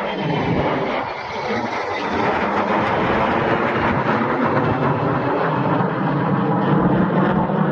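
Turboprop engines of a Lockheed C-130 Hercules running loud and steady: a dense drone with several steady tones, growing a little louder toward the end.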